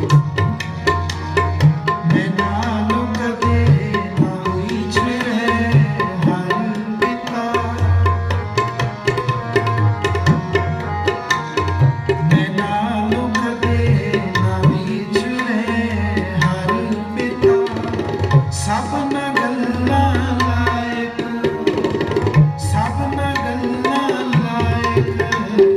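Tabla playing a fast instrumental passage, the bass drum's pitch repeatedly swooping up and down under quick strokes, over steady held notes.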